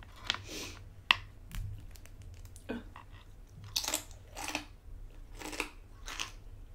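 Close-up chewing of very crispy bacon: two sharp cracks in the first second, then a run of crunches about every half second to second.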